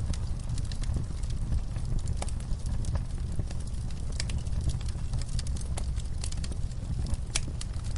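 Wood fire in a fireplace crackling: irregular sharp pops and snaps, several a second, over a steady low rumble, with one louder pop near the end.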